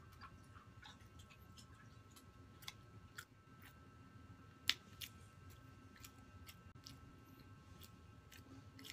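Quiet chewing with soft mouth clicks and smacks scattered throughout, one sharper click a little past halfway.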